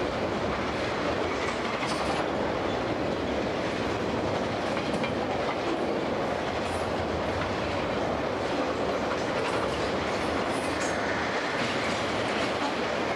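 Freight cars of a piggyback train, flatcars loaded with highway trailers, rolling past: a steady rumble of steel wheels on the rails.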